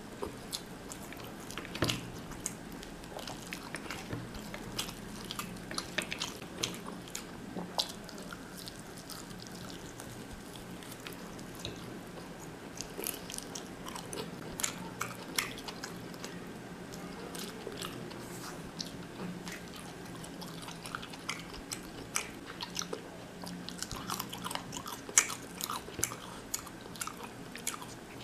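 A man chewing mouthfuls of mutton biryani close to the microphone: wet mouth clicks and smacks scattered irregularly throughout, over a faint steady hum.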